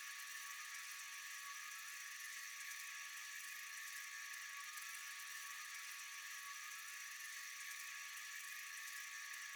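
Faint, steady chorus of night insects: a dense high-pitched buzzing hiss with a thin continuous tone beneath it, unchanging throughout.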